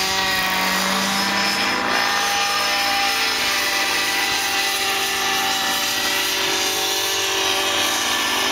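Radio-controlled model helicopter in flight, its motor and rotor running with a steady whine and a constant hiss.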